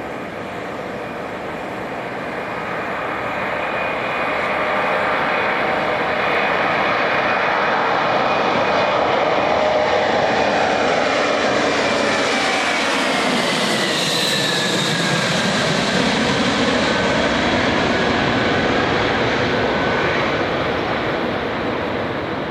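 Boeing 737-700 BBJ's CFM56-7B turbofans at climb power as the jet passes by: steady jet noise that grows louder over the first few seconds, with an engine whine that falls in pitch about fourteen seconds in.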